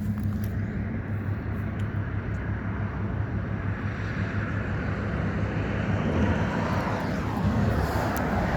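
Outdoor traffic noise with a steady low hum. A vehicle grows louder about six seconds in and passes, its pitch falling as it goes by near the end.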